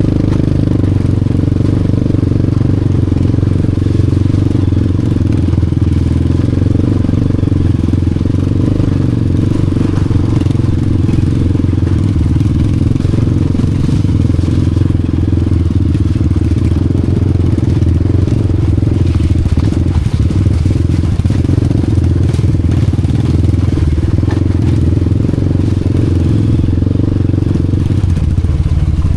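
Honda Wave 125 motorcycle's single-cylinder four-stroke engine running steadily at an even speed, with no clear revving.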